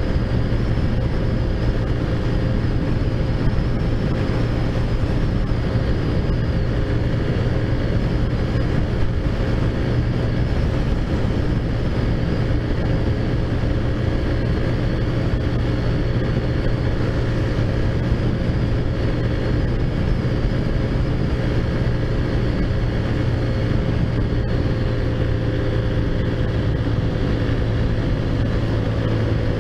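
Taotao Zummer 50cc four-stroke scooter engine, fitted with a big bore kit and aftermarket exhaust, running steadily while riding, its pitch easing slightly near the end.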